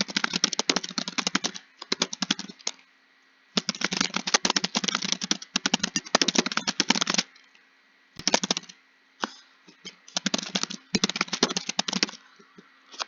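Fast typing on a computer keyboard: dense runs of key clicks in bursts of a second or two, broken by short pauses.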